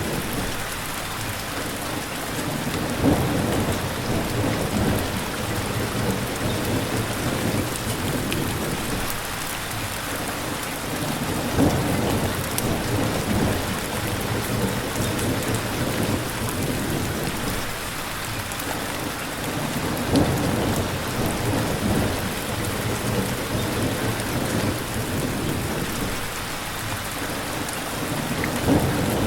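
Steady rain with low thunder rumbling. A short louder crack comes about every eight and a half seconds at an even spacing, as in a looped rain-and-thunder track.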